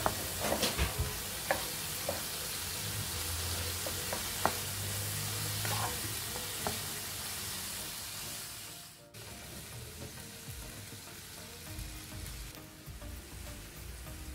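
Chicken, beef and vegetables sizzling in a hot wok, with a wooden spatula stirring and knocking against the pan in sharp clicks. About nine seconds in, the sizzle drops suddenly to a quieter level and the clicks stop.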